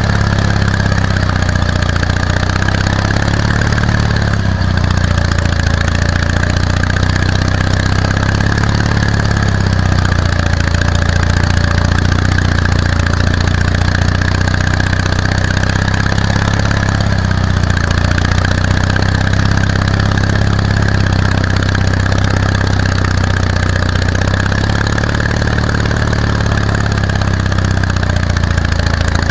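Ural motorcycle's flat-twin engine running at low, fairly steady revs, the pitch rising and falling slightly.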